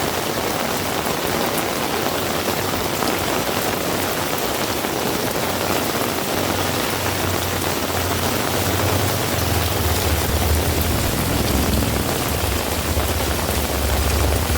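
Heavy rain falling steadily. From about halfway through, a low engine rumble builds as a motor vehicle draws near, growing louder toward the end.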